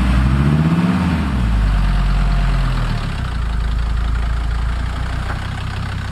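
Mercedes T1 van engine pulling away through snow up a slight hill: the engine note climbs then drops back within the first two seconds, then runs steadily under load.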